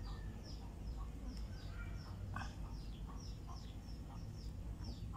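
Bird chirping: a rapid series of short, high chirps that each fall in pitch, about three a second, over a low steady hum.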